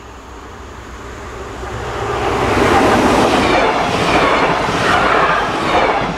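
A train approaching and passing close by: the rumble and wheel-on-rail noise grow over about two and a half seconds, then stay loud.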